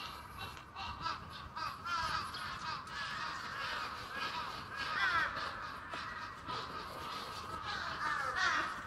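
Birds calling over one another, many short gliding calls several a second, loudest about five seconds in and again near the end, over a faint steady outdoor hush.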